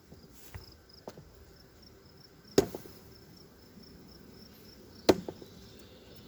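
Wooden beehive parts knocked and set down as the hive is being reassembled: two sharp knocks about two and a half seconds apart, with a few lighter taps around them.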